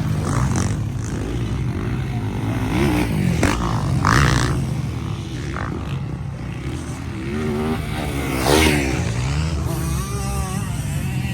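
Several MX1 motocross bikes racing, engines revving up and down through the gears. One passes loudest about eight seconds in, its pitch rising then falling.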